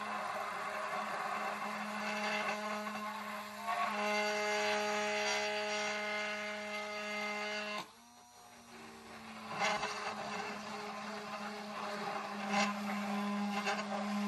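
Hand-held immersion blender running in a narrow jar, emulsifying avocado oil and eggs into mayonnaise: a steady motor whine whose pitch shifts about four seconds in. It stops briefly about eight seconds in, then runs again with some knocks.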